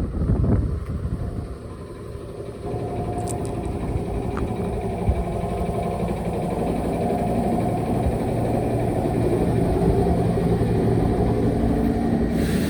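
Toyama Chiho Railway electric train standing in the station yard, its equipment giving a steady hum over a low rumble. The hum grows louder about three seconds in and then holds steady.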